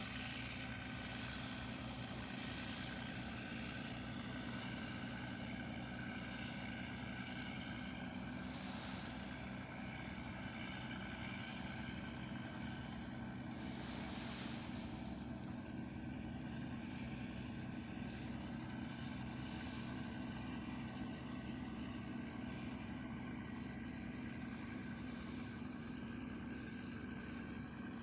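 Ship's engine running with a steady, even drone, with a few brief swells of hiss over it.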